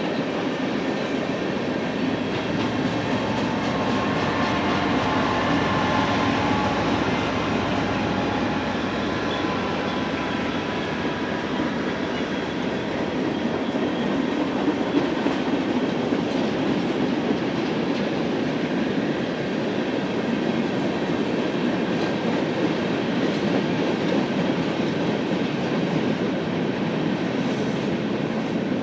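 Freight cars of a long manifest train rolling past in a steady rumble and rattle of steel wheels on the rails, with faint wheel squeal in the first third.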